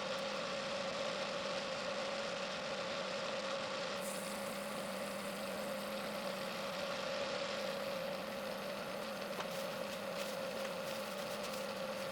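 Mini lathe running a steady profiling cut, a constant motor hum with two held tones.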